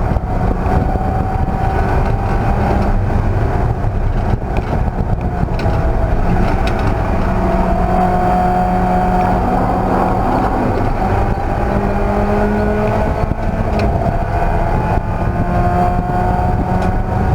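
Race car engine running hard at speed, its note rising and falling gently, over heavy low wind and road rumble.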